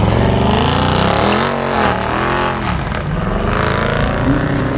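A car engine revving hard, its pitch climbing and dropping in a couple of quick swells about halfway through, then holding high again.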